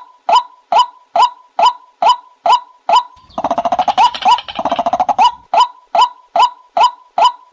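White-breasted waterhen calling: a loud, repeated 'kwak' note about twice a second, broken for about two seconds by a fast run of croaking notes before the steady calls resume. This is the waterhen's lure call used to draw birds to a trap.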